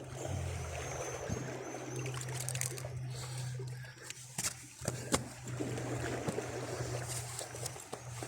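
Seawater trickling and sloshing among shoreline rocks, with a few sharp knocks about halfway through and a low steady hum underneath.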